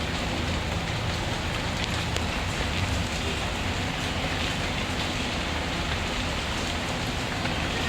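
Steady rain falling, with a low rumble underneath and a few faint crackles from a wood fire.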